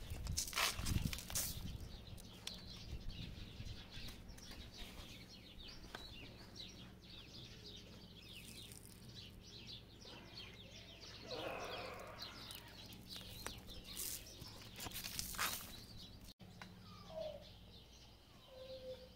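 Small birds chirping in quick, faint runs, with a few sharp knocks and scrapes of stones and soil being dug by hand.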